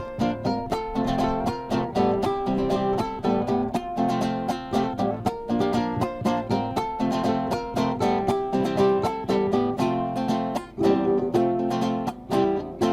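Acoustic guitar strummed and plucked in a quick, steady rhythm, playing the instrumental introduction to a Chilean folk song before the singing begins.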